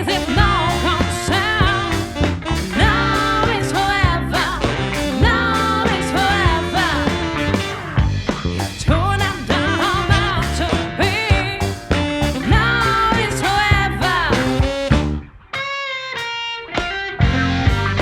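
Live band with drums, bass and keyboards playing a groove under a lead line soloing in bending, wavering phrases. About fifteen seconds in the band stops briefly, leaving the lead line alone, then comes back in.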